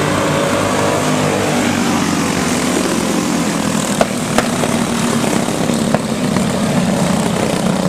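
Several racing go-kart engines running together on track, a steady buzzing drone. A few sharp clicks are heard about four seconds in and again about six seconds in.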